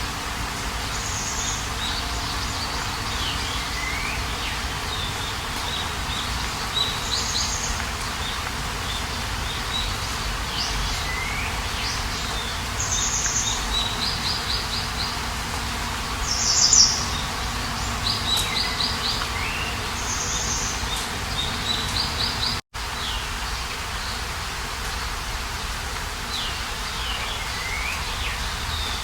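Songbirds singing outdoors: short repeated phrases of sweeping whistles and quick trills every couple of seconds, over a steady background hiss. The sound cuts out for a split second about two-thirds of the way through.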